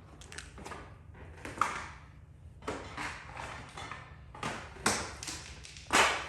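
Glue being scraped and rubbed off a car body panel after a glue pull: a run of short rasping strokes, the loudest just before the end.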